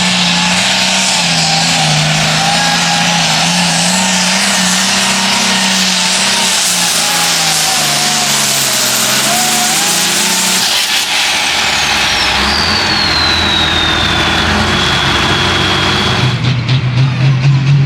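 A turbocharged diesel pulling tractor runs at full throttle down the track, its engine note wavering under load with a high whine over it. About eleven seconds in the throttle comes off and a high whistle slides down in pitch as the turbo spools down. Near the end the engine note turns uneven.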